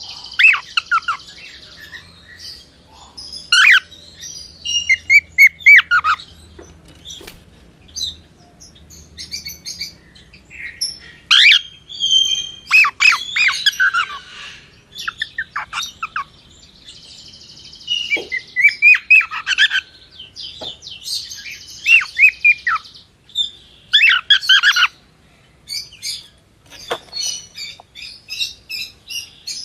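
Cockatiel chirping and whistling in short bursts of quick falling and rising notes, mixed with harsher grating squawks, with brief pauses between bursts.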